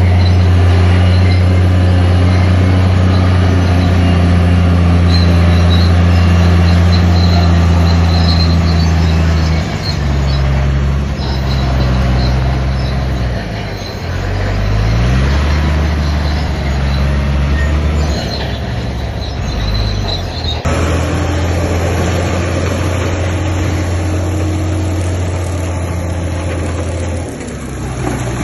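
Bulldozer's diesel engine running loud and steady, its pitch shifting several times as the throttle changes, with a rising rev about halfway through.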